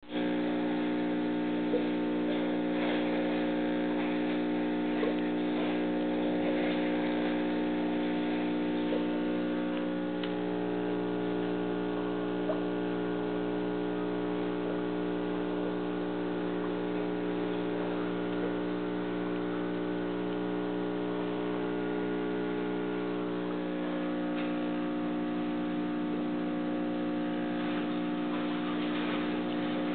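Steady electric hum of aquarium equipment, holding one pitch with a stack of even overtones, with a few faint clicks.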